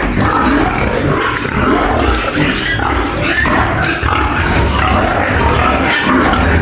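A pen of pigs squealing and grunting excitedly at feeding time, many animals at once in a loud, continuous din.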